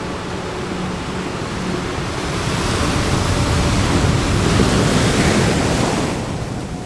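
An ocean wave rushing in: the surf noise swells about two seconds in, holds loudest for a couple of seconds, then dies away near the end. A faint steady tone fades out in the first couple of seconds.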